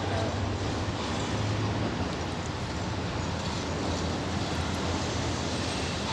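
Steady vehicle noise: a constant engine hum under an even hiss, with no distinct events.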